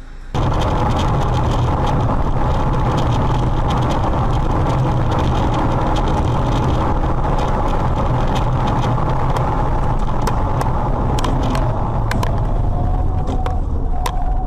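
Steady road and engine noise of a car driving, starting abruptly about half a second in, with a few sharp clicks near the end.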